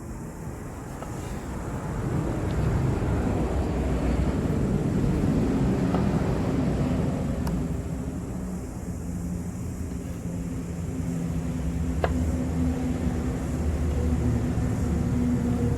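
A low, steady motor-like rumble with a hum, swelling up after a couple of seconds, easing off near the middle and rising again, with a sharp click about halfway through and another near the end.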